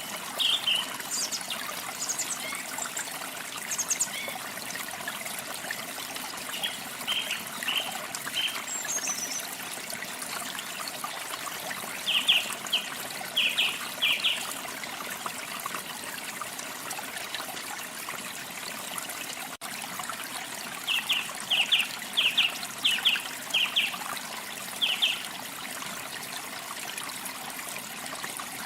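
Small birds chirping over a steady trickle of running water. The chirps come as short high notes, with two quick runs of them, one about a third of the way in and one past the middle, and a single falling high note a little before the first run.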